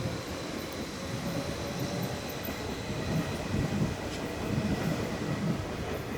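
Athens Metro train running on the rails: a steady low rumble with uneven pulses and faint, steady high-pitched tones.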